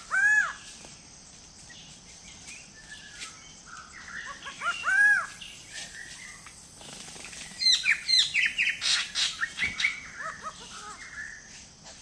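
Forest birds calling: a clear arched whistle near the start and another about five seconds in, then a quick run of varied chirps and falling whistles in the second half.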